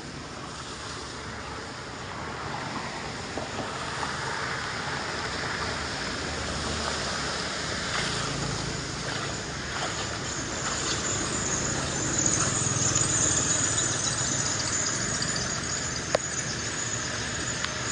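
Floodwater rushing, a steady noisy wash that swells about two-thirds of the way in, with a few faint clicks.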